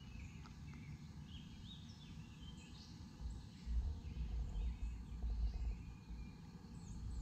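Outdoor ambience of birds chirping in short, scattered calls, under an uneven low rumble on the microphone that swells about halfway through.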